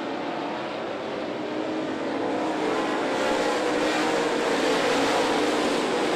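Dirt late model race cars' engines running together as a pack goes by, several engine notes overlapping and growing louder about two seconds in.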